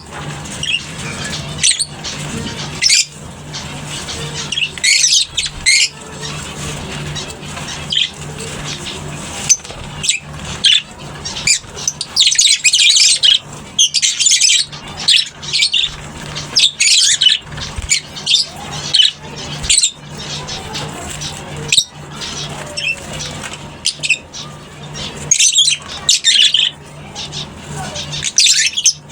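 A colony of lovebirds squawking and chirping, with many short shrill calls overlapping in quick succession, busiest in the middle. A steady low hum runs underneath.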